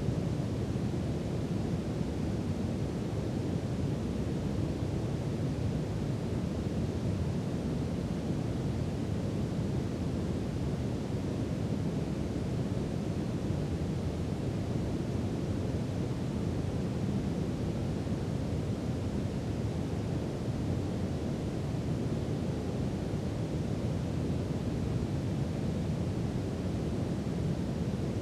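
Brown noise: a steady, deep rushing hiss with no changes, its energy weighted toward the low end.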